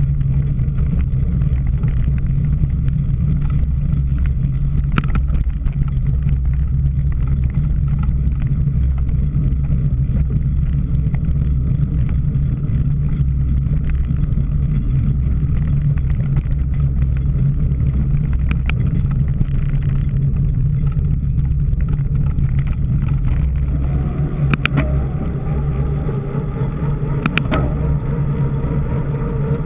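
Wind rumbling on the microphone of a camera riding on a cyclocross bike mid-race, with a few sharp knocks and rattles from the bike over rough ground.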